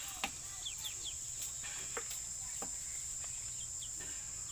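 Steady high-pitched insect drone of cicadas or crickets, with a few short chirps and several sharp clicks scattered through it.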